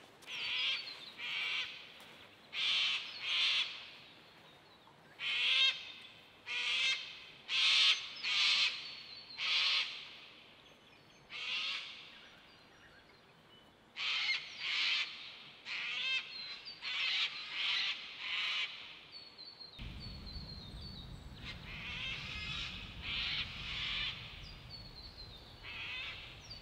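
Birds calling over and over, short loud calls often coming in pairs or small groups. About twenty seconds in a low steady rumble starts suddenly under the calls.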